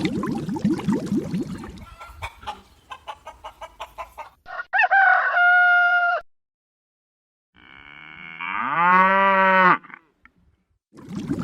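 Chickens clucking in a rapid run of short notes, followed by two separate rooster crows with a gap between them; the second crow is longer and rises in pitch.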